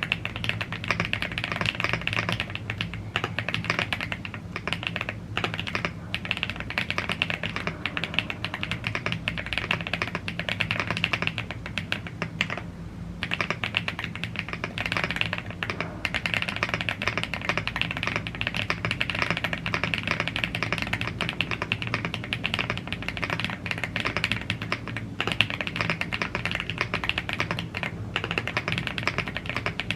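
Fast, continuous typing on a YUNZII AL75 gasket-mounted aluminium mechanical keyboard with Blue Grey tactile switches and PBT keycaps. The dense clicks let up briefly a little before halfway.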